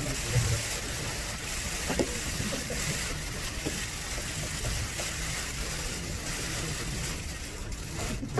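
Press cameras firing shutters continuously during a photo call, blending into a steady rustling hiss with a few sharper clicks, over a low murmur of voices in the room.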